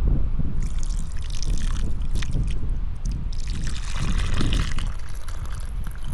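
Wind buffeting the microphone with a steady low rumble, and a rough, crackly hiss over it in two stretches: from about half a second in, and again from about three and a half seconds.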